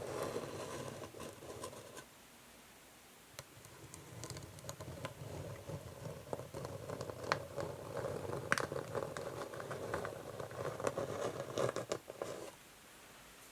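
Fingernails scratching slowly across an old wooden chess board, with a few sharp clicks among the strokes. The scratching pauses about two seconds in, resumes a second or so later, and stops near the end.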